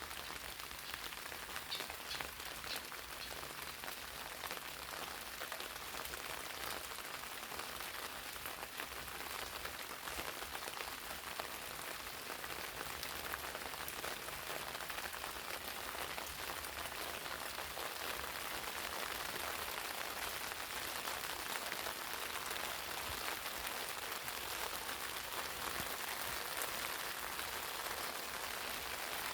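Steady rain pattering on eggplant leaves, many small drop ticks over an even hiss.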